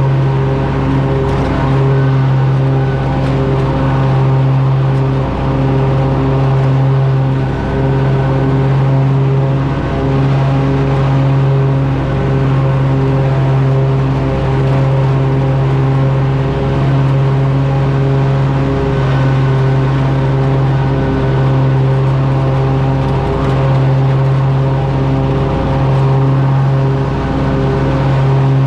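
Kohler engine on a Country Clipper riding mower running steadily at a constant speed, with an even pitched hum that dips slightly in loudness now and then.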